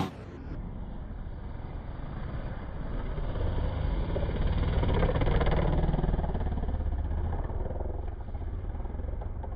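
Motorcycle engine running, growing louder toward the middle and then easing off.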